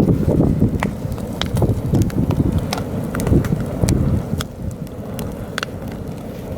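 Heavy wind buffeting the microphone with a low, gusting rumble, while a campfire crackles with sharp pops and snaps scattered throughout.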